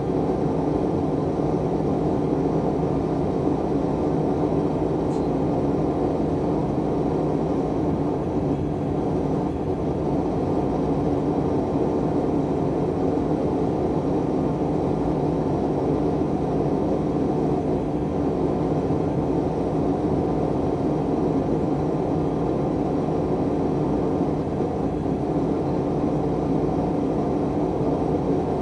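Forge burner running with a steady, unbroken rushing noise while heating the cast-steel part.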